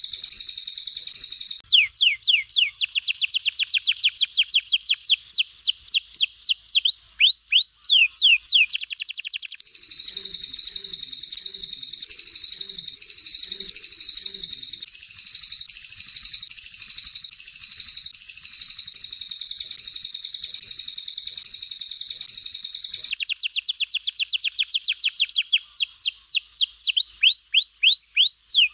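Songbird training recording of canary and cililin song. It alternates between stretches of dense, high, buzzing trill and runs of rapid whistled notes, several a second, each sweeping sharply downward in pitch. The runs of sweeping notes come about two seconds in and again near the end.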